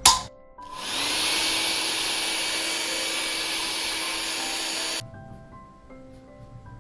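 Hand-held hot-air dryer blowing on freshly painted magnets to dry the paint between layers, spinning up with a rising whine about half a second in, running steadily, then switched off suddenly about five seconds in. Soft background music follows.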